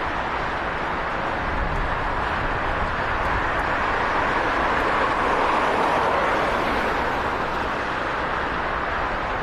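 Four-turboprop Airbus A400M climbing away after takeoff, a steady distant engine roar without clear tones that swells a little about halfway through.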